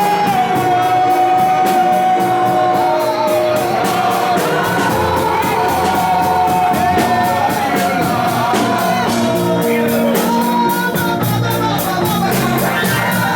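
Live church worship music: a voice singing long, sliding notes over a band with a steady beat.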